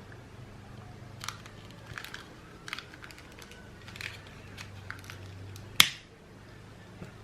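Scattered light clicks and crackles from handling a twine-wrapped paper beehive and a candle lighter while stray twine fibres are singed off, with one sharp, louder click about six seconds in.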